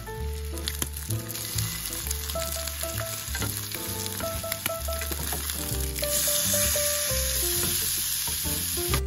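Egg-coated Spam slices and fish cake pieces sizzling in oil in a rectangular egg-roll pan while being turned with wooden chopsticks; the sizzle gets louder about six seconds in, as raw sliced pork goes into the pan. Soft background music underneath.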